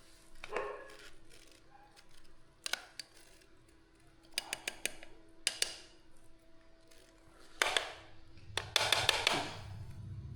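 Scattered clicks and knocks of kitchen utensils and dishes being handled during food preparation, with a busier run of clatter near the end.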